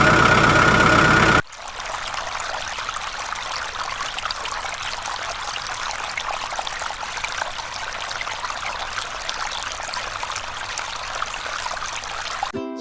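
A loud steady tone for about a second and a half, then water from a toy water pump spraying and trickling steadily, stopping just before the end.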